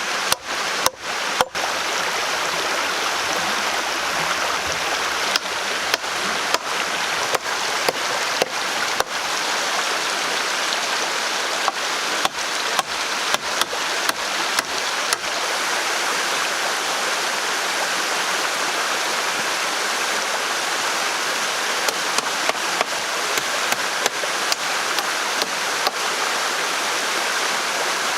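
Steady rush of a stream, with runs of sharp knocks coming a couple to a few times a second, stopping and starting again several times.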